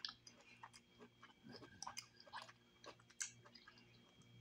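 Faint mouth sounds of someone chewing chitterlings with the mouth closed: scattered soft wet clicks and smacks.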